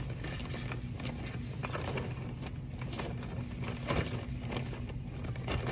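Scattered clicks, knocks and rustles of a tub of dip being packed into a bag, over a steady low hum.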